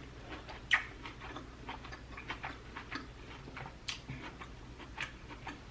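Close-miked chewing of tomahawk steak: irregular soft, wet mouth clicks, with a sharper click about three-quarters of a second in and another near four seconds.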